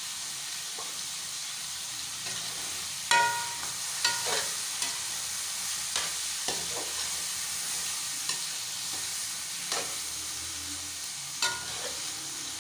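Chicken pieces and tomatoes frying in hot ghee with a steady sizzle in a large metal pot, stirred with a metal spoon that clinks against the pot several times, each clink ringing briefly; the loudest clink comes about three seconds in.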